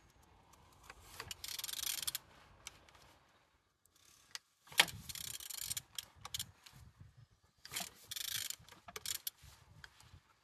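A loose engine being turned over by hand: irregular metallic clicks, scraping and rubbing, with one sharp click about five seconds in. It turns freely and without binding.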